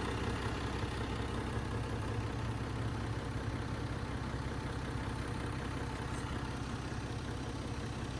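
Lifted Jeep Wrangler's engine idling steadily, a low even hum.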